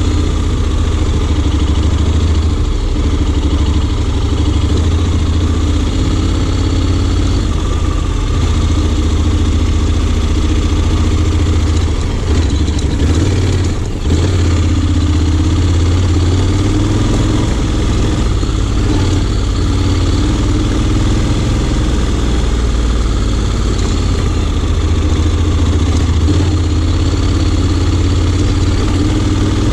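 Honda X-ADV 750's parallel-twin engine running at low, fairly steady revs, its pitch shifting a little, with a brief drop in level about halfway through.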